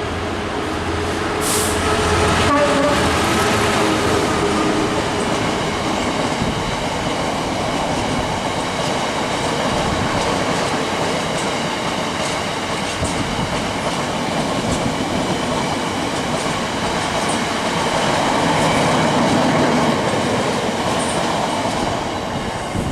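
A Class 66 diesel freight locomotive, with its two-stroke V12 engine, passes at track side. The engine's note is clear in the first few seconds, then gives way to the long, steady noise of its train of wagons rolling past on the rails.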